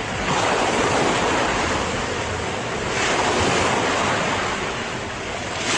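Recording of ocean waves breaking on a shore: a steady rushing surf that swells and eases in slow surges.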